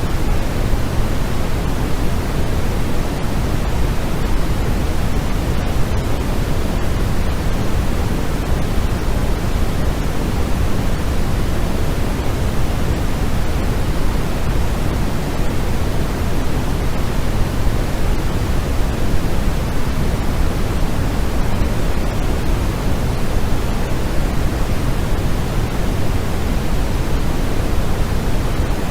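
Steady sleep noise, even and unchanging, with more weight in the low end than the highs, like pink noise.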